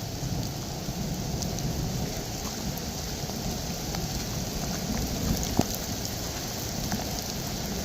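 Heavy rain falling steadily, with a few scattered ticks of drops striking close by.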